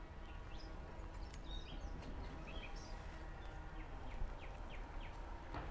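Birds chirping in short, scattered calls, over a faint low rumble.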